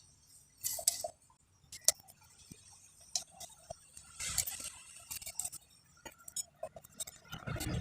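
Light metallic clicks and clinks at irregular intervals: small nuts being handled and fitted onto the cylinder-head studs of a motorcycle engine.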